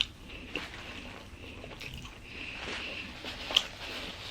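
Close-up chewing of a Philly cheesesteak sub, with a few short wet mouth clicks, the loudest about three and a half seconds in.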